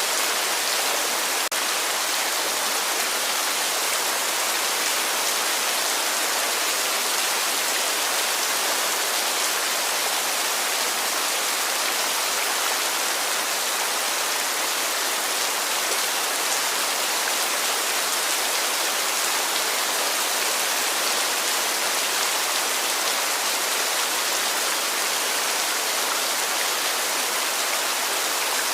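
Heavy rain falling steadily: a dense, even hiss of drops that never lets up.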